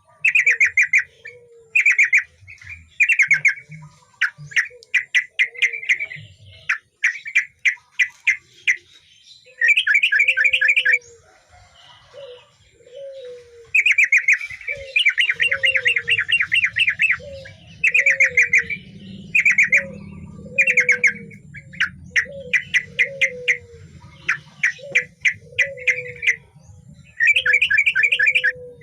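Male yellow-vented bulbul singing vigorously: fast, bubbling phrases of rapid chattering notes, repeated again and again with short breaks. Throughout, a softer, lower call repeats about once a second.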